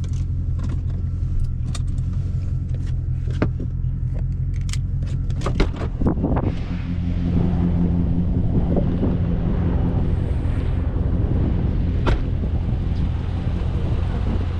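Dodge Charger Scat Pack's 392 HEMI V8 running at low revs with a steady, deep note, picking up slightly about halfway through. Scattered clicks and knocks sound over it, with a short cluster of them just before the engine note rises.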